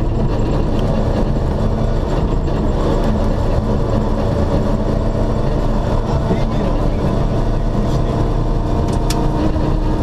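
Rally car engine running at a steady pace, heard from inside the cockpit, over tyre and road noise.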